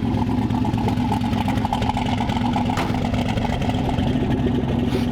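Race car engine idling steadily, with a fast, even pulse to its note.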